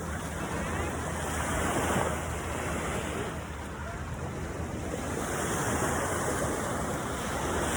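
Ocean surf washing in on the beach, swelling louder about two seconds in and again around six seconds, with wind buffeting the microphone.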